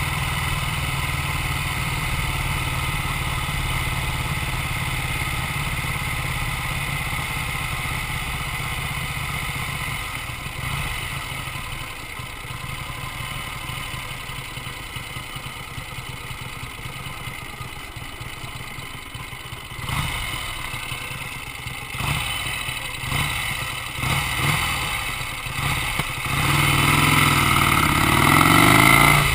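Vincent Black Shadow's 998 cc V-twin engine idling steadily, then taking a few short throttle blips. Near the end it revs up louder, its pitch rising.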